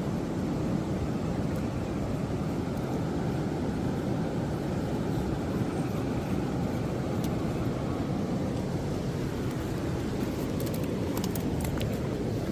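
Absima Sherpa RC scale pickup truck driving off-road: a steady noisy rumble with a faint electric-motor whine that drops in pitch about nine seconds in. A few sharp clicks come near the end.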